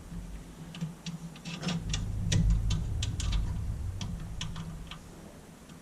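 Irregular small metallic clicks and taps of nuts and bolts being fitted by hand to a coolant expansion tank mount, over a low hum.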